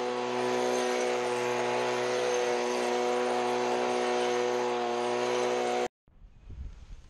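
Gas leaf blower running steadily at high speed, a high engine whine over the rush of air, cutting off suddenly about six seconds in.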